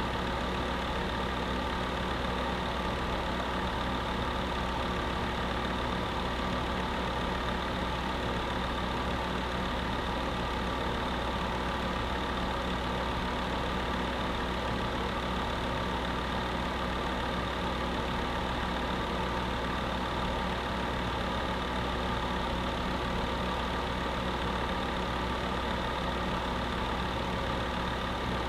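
Space heater running steadily: a constant, unchanging hum with several steady tones over an even rush of noise.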